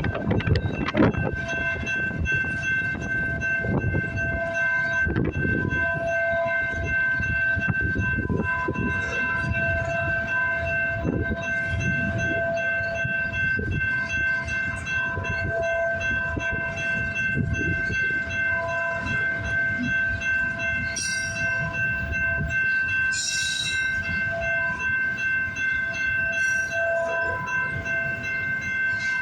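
CN freight train's cars rolling past: a steady rumble and clatter of wheels on rail. Several steady high-pitched tones ring on throughout.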